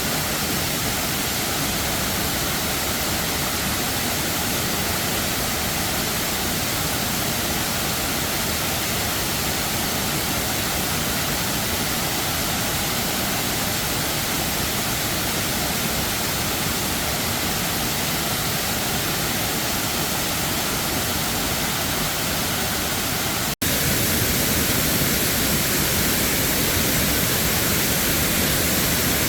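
Waterfall: a steady, even rush of falling water, broken by a split-second gap about three-quarters through, after which it is slightly louder.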